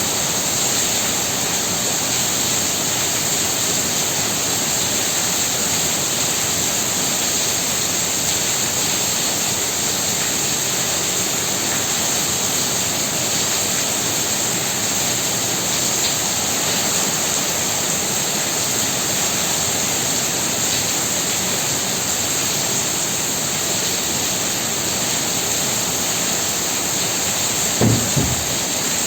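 Heavy rain falling, a dense steady hiss with no let-up. Near the end there is a brief low double thump.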